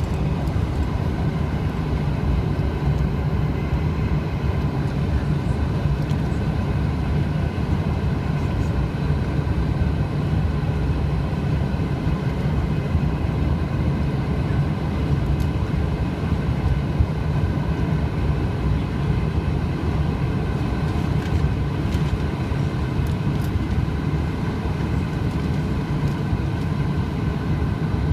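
Cabin noise of a Bombardier CRJ-900 with its rear-mounted GE CF34 turbofans running: a steady low rumble with several steady whining tones above it.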